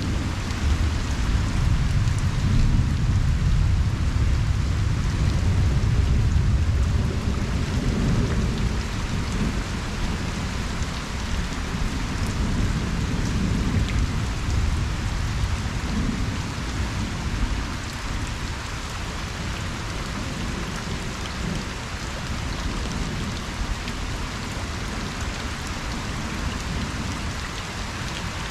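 Steady rain falling on a pond, with a low rumble of distant thunder that is strongest in the first several seconds and then slowly dies away.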